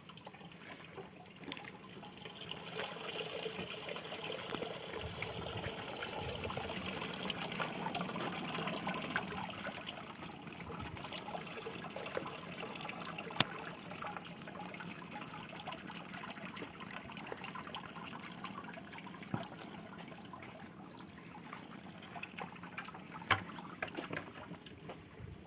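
A steady trickling of liquid, fuller for the first several seconds, with a few sharp clicks scattered through it.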